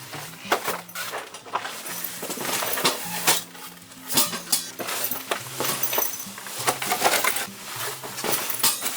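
Dishes and utensils clinking and knocking in a quick, irregular series of light strikes.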